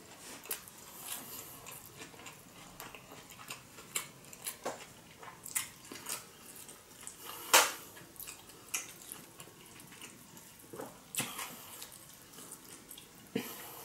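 Close-miked eating sounds from a large sushi roll: wet chewing and mouth clicks, with the soft handling of the nori-wrapped roll in the hands. Short sharp clicks come scattered throughout, the loudest about seven and a half seconds in.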